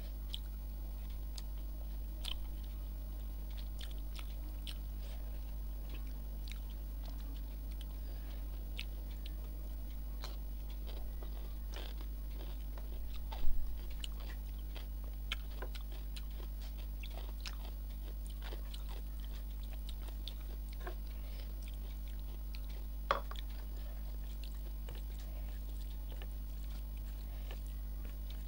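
Close-miked chewing and small wet mouth clicks of someone eating rice with curry and fried banana fritters by hand, over a steady low hum. A single loud thump sounds about halfway through.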